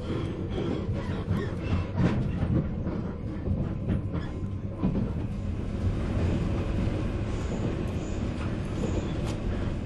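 Running sound heard inside a 485-series electric train's motor car: a steady rumble of wheels and running gear on the rails, with a few sharp rail-joint clicks in the first half.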